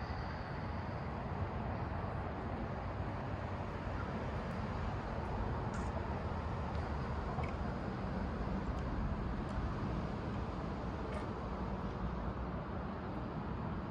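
Union Pacific manifest freight train rolling past with a steady rumble, with a few sharp clicks.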